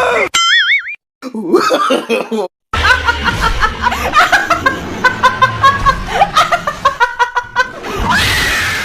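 A brief warbling whistle, then a person laughing in quick repeated bursts.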